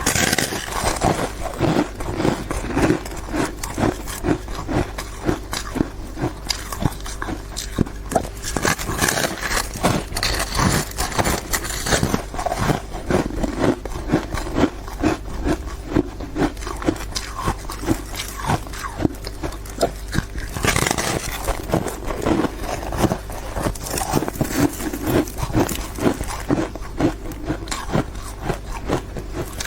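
Ice being bitten and chewed close to the microphone: a dense, irregular run of crisp crunches, several a second.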